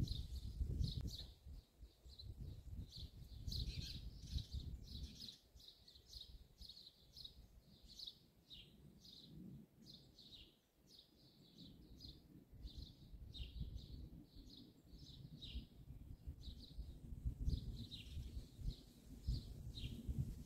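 Birds chirping: a steady run of short, high, slightly falling notes, about two a second, over a low rumble.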